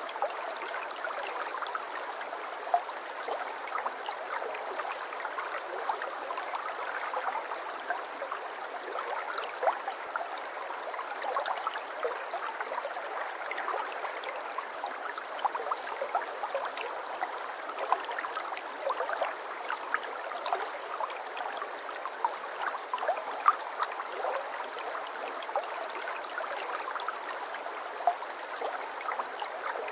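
A small babbling brook burbling and trickling steadily over stones, with a constant rush of water and many small splashes and gurgles scattered throughout.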